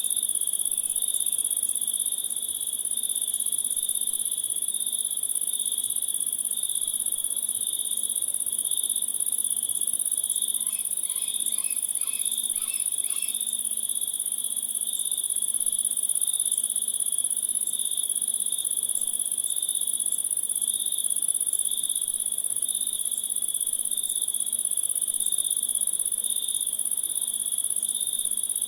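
Chorus of crickets and other insects: a steady high trill with a pulsing chirp beneath it. About halfway through, a brief run of about six quick chirps from another animal sounds over it.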